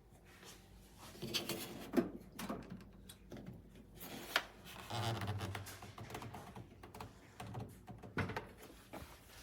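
Irregular clicks and taps with some rustling, the sounds of objects being handled.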